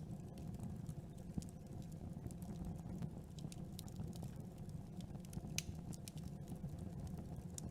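Campfire crackling: irregular small pops and snaps over a steady low rumble of the burning fire, with one sharper pop a little past the middle.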